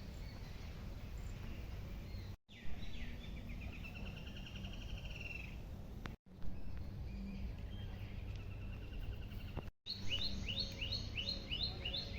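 Birds calling and singing over a steady low outdoor rumble. There are rapid trilled phrases in the first half, then a quick run of short downward-sweeping notes, about three a second, near the end. The sound drops out briefly three times.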